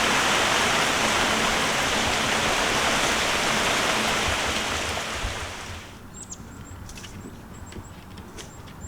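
Heavy rain pouring down in a thunderstorm, a loud steady hiss that fades away a little past halfway, leaving scattered light clicks and faint high chirps.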